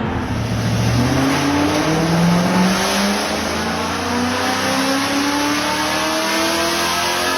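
Toyota UZ-series V8 engine under hard acceleration, its pitch rising steadily for several seconds in one long pull.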